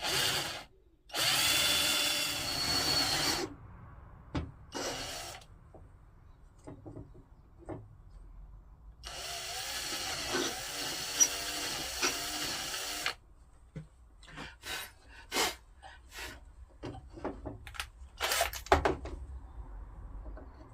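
Handheld power drill boring holes into a maple block: a run of about two seconds near the start and a longer run of about four seconds in the middle, its whine shifting in pitch as it cuts. Short knocks and clicks of the drill and wood being handled come between the runs.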